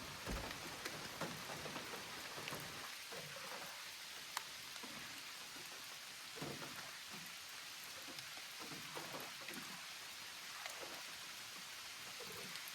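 Steady light rain falling outside an open car door, a soft even hiss with scattered drops ticking.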